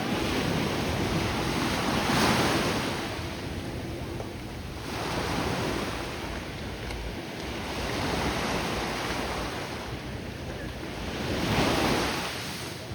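Ocean surf breaking and washing in, a steady rush of noise that swells and fades with each wave, the loudest breaks about two seconds in and again near the end, with some wind buffeting the microphone.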